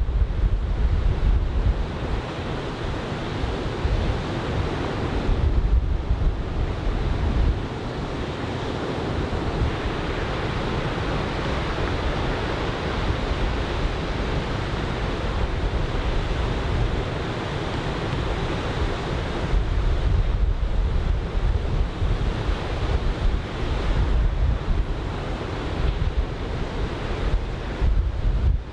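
Surf from a typhoon swell breaking and washing along a sandy beach, a steady rushing wash. Offshore wind buffets the microphone in several gusts, adding a low rumble.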